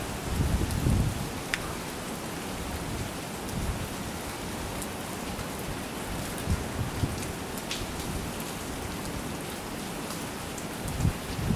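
Rain falling steadily in a thunderstorm, with scattered sharp drop ticks and brief low rumbles right at the start and again near the end.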